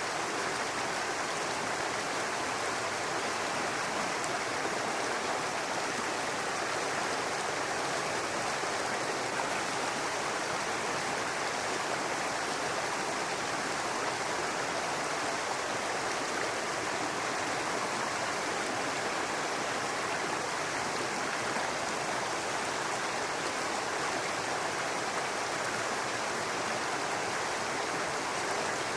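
Brook water running and babbling over rocks in a steady, even rush.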